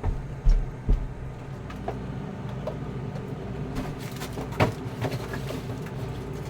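Boxes of frozen food knocking and scraping as they are stacked into a freezer shelf, a few sharp knocks about half a second in, near a second in, and a louder one after four seconds, over a steady low hum.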